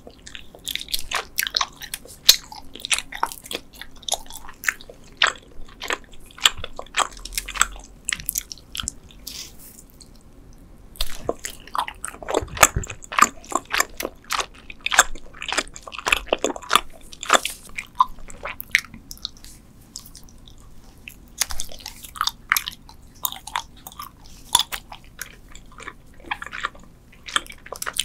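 Close-miked chewing of Trolli spider-shaped gummy candies: many quick mouth clicks and smacks as the chewy gummy is bitten and worked between the teeth, with a short pause about ten seconds in.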